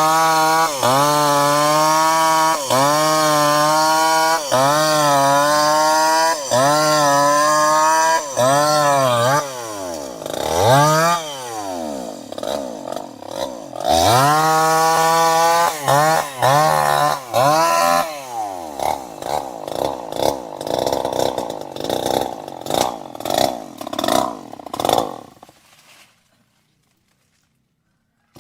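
Two-stroke chainsaw engine revving in repeated cycles, its pitch climbing and dipping about once a second. The revs fall away, it revs up again, then runs rough and uneven and dies out, leaving silence for the last couple of seconds.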